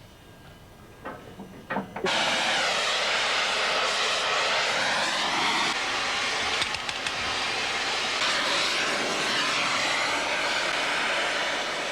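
Loud, steady rushing roar that cuts in suddenly about two seconds in, with a slow sweeping, phasing whoosh running through it. A few faint knocks come before it.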